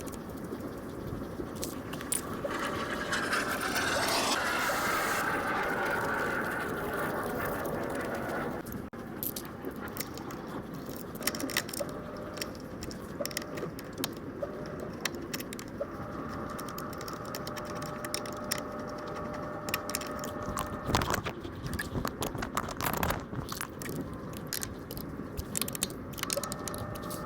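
Hand tools and metal exhaust parts clinking, rattling and scraping while a slip-on muffler is fitted to a scooter, with irregular sharp ticks. A longer stretch of scraping runs from about three to eight seconds in.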